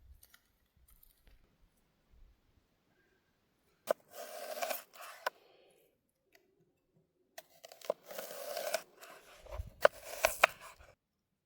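Cutting during food preparation: two stretches of crisp cutting, each about a second long and each opening with a sharp click, then a few sharp clicks near the end.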